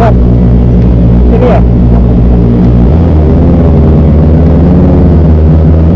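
Kawasaki ZX25R's 250 cc inline-four engine running steadily while riding; its note changes about three seconds in.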